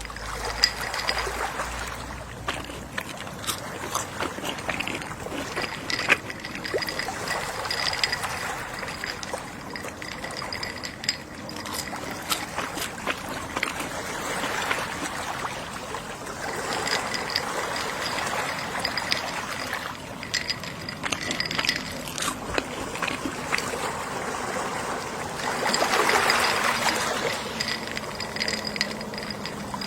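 Gentle sea waves washing in and receding, swelling every few seconds with the biggest swell near the end, with scattered small clicks through it.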